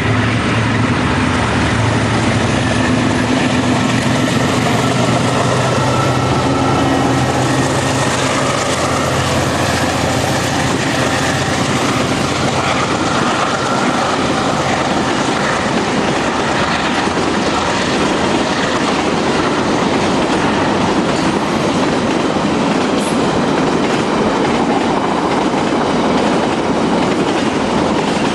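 A diesel-hauled freight train passing close by. The locomotive's low engine tones come through in the first several seconds, then the wagons rattle past in a continuous loud rush with clickety-clack over the rail joints.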